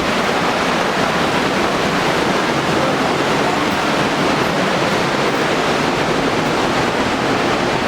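Loud, steady rush of river water tumbling over boulders.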